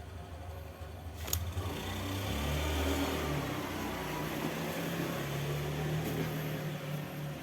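A motor vehicle engine running, growing louder about two seconds in and then holding steady. There is a single sharp click shortly before it swells.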